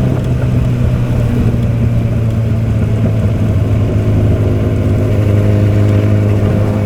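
Motorcycle engine running under way at a steady speed, with road and wind noise. The engine note drops a little about a second and a half in, then holds steady.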